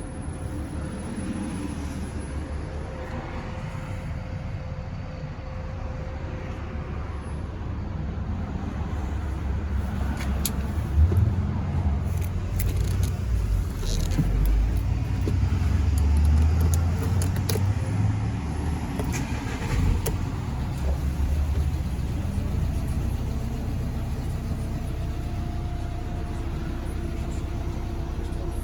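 Volkswagen Crafter 2.0 TDI diesel engine running with a steady low rumble. It grows louder from about ten seconds in, peaks in the middle with a few sharp clicks, and settles back.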